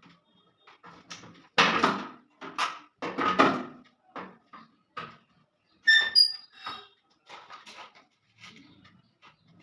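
Hands working on a washing machine's sheet-metal and plastic parts while fitting the door switch: a run of irregular knocks and scrapes, loudest in the first half, and a short high squeak about six seconds in.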